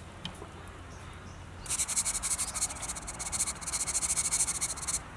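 An insect's loud, high-pitched, rapidly pulsing call, starting suddenly about a second and a half in and cutting off just before the end.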